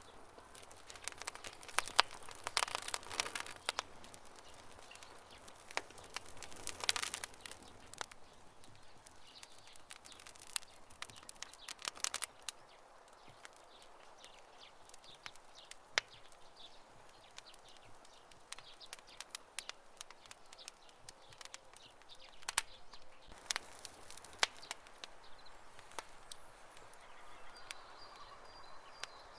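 Wood campfire crackling, with irregular sharp pops and snaps; short flurries of dense crackling come about 2 to 3 seconds in and again about 7 seconds in, the loudest snap about 2 seconds in.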